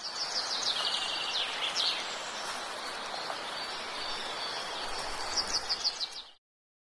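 Birds chirping over a steady outdoor hiss, with quick runs of chirps near the start and again near the end. The sound cuts off abruptly shortly before the end.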